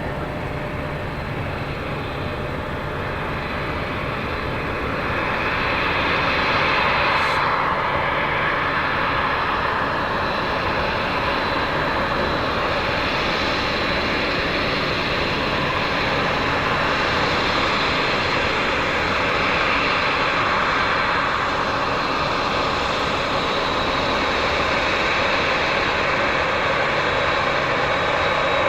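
Aircraft engines running: a steady, loud noise that swells about five seconds in and then holds, with a brief falling whine about seven seconds in.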